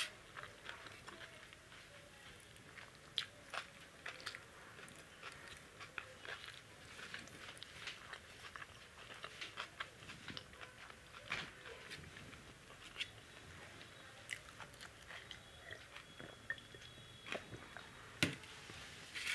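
Faint mouth sounds of someone eating rice by hand: soft chewing and wet lip smacks, made up of many small irregular clicks, with a sharper click near the end.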